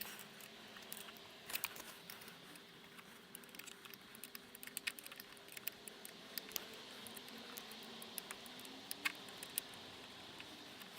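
Faint, irregular metallic clicks and taps of a hand tool working 6 mm Allen bolts loose to take a rear footpeg bracket off a motorcycle.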